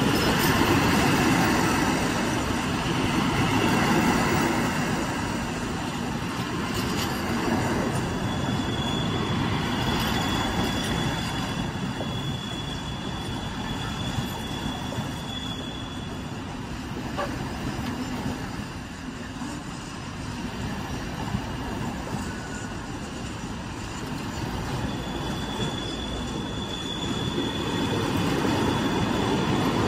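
Empty freight train of stanchion flat wagons rolling slowly past on curved track, with a steady rumble of wheels on rail. A thin, high, steady wheel squeal comes in about eight seconds in and again near the end.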